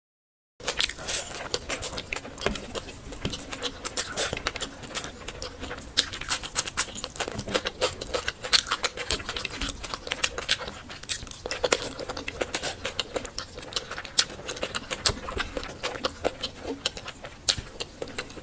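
Close-miked mukbang eating sounds: a dense run of wet clicks and smacks from chewing and mixing rice with gravy, starting about half a second in after silence.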